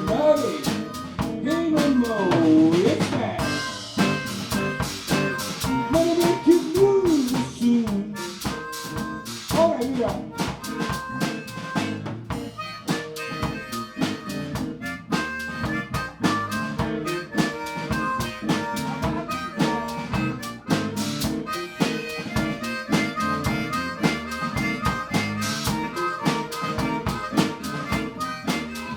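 Live band music in a blues-jazz vein: a drum kit keeps a steady beat under chords, while a lead melody line bends its notes up and down through roughly the first ten seconds.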